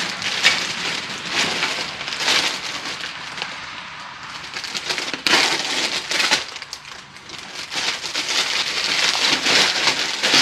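Crackling, rustling handling noise in uneven bursts, with no steady tone, as the removed window regulator assembly is handled.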